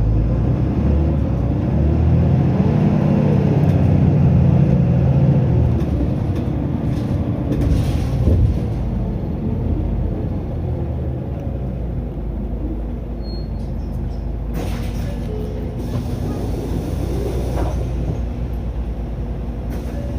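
Mitsubishi Fuso Aero Star LKG-MP37FKF city bus under way, heard from inside the cabin. Its diesel engine pulls hard and climbs in pitch over the first few seconds, then eases off to a steadier, quieter run, with a single knock about eight seconds in.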